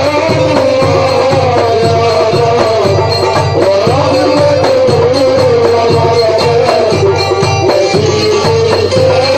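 Live Egyptian simsimiyya folk band music: a wavering melody line over a steady, even drum beat, with no words sung.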